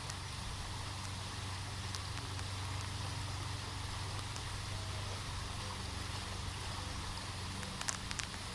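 Small boat's motor running steadily with a low hum, over a constant hiss of water.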